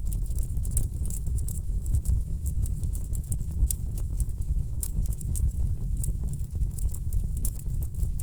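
Wood fire burning in a fireplace, with a steady low rumble and frequent irregular sharp crackles and pops from the burning logs.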